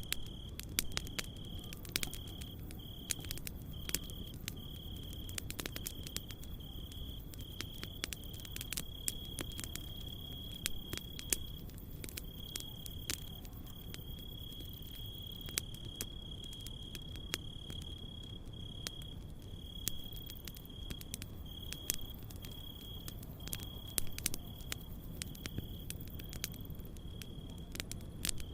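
Campfire crackling, with many sharp irregular pops, over a steady high-pitched cricket trill that breaks off and resumes every second or so.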